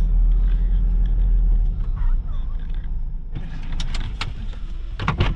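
Low road rumble inside a moving car. About three seconds in it gives way abruptly to a handful of sharp clicks and knocks.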